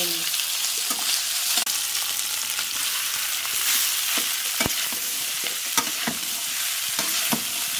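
Boiled potato pieces sizzling in hot oil in a metal kadhai, stirred with a flat metal spatula that scrapes and taps against the pan again and again. One tap, a little past halfway, is louder than the rest.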